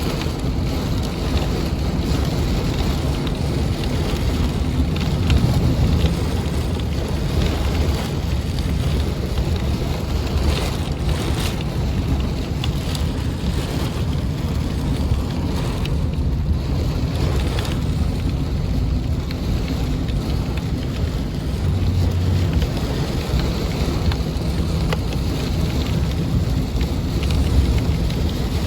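Heavy thunderstorm rain pouring steadily, with wind buffeting the microphone as a low rumble.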